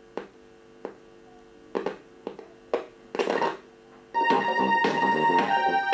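Small test speaker driven by a PAM8403 amplifier board crackling with a faint buzz and several sharp pops as the audio wire is touched to points on the LCD TV's main board. About four seconds in the TV's audio output is found and music starts playing loudly through the speaker.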